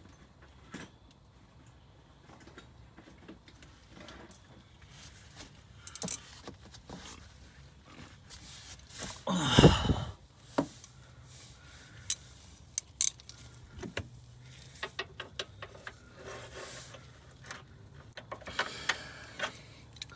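Metal hand tools clinking and clattering in short, scattered clicks while a half-inch drive tool is fetched and fitted, with one louder, longer sound about halfway through.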